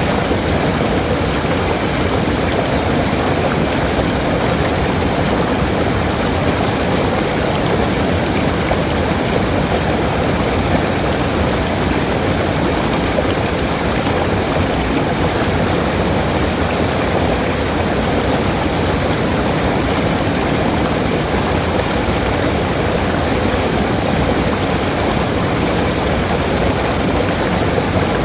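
Waterfall: water falling and rushing in a steady, loud roar with no breaks.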